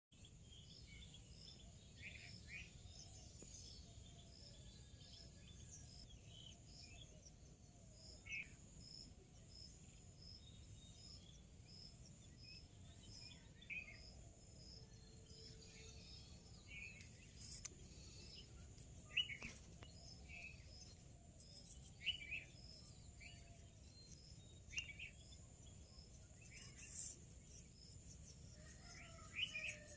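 Faint short bird chirps scattered over a steady high insect-like drone and a regular faint pulsing, with a few sharp clicks in the second half.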